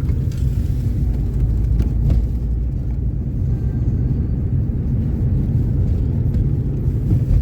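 Steady low rumble of a car's engine and tyres heard from inside the cabin while driving on a snow-covered road, with a few faint clicks in the first couple of seconds.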